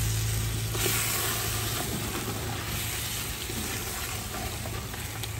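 Chicken pieces sizzling as they fry in hot ghee in a clay pot, stirred with a wooden spatula: a steady frying hiss, a little brighter about a second in.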